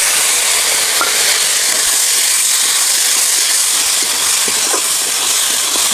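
Chopped tomatoes and fried onions sizzling in hot oil in a kadai, a steady hiss.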